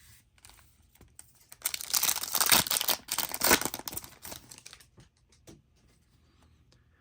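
Foil trading-card pack wrapper being torn open and crinkled: a dense crackling lasting about three seconds, followed by a few faint clicks of handling.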